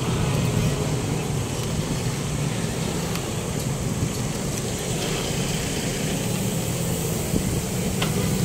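Steady hum of a motor vehicle engine with road traffic noise.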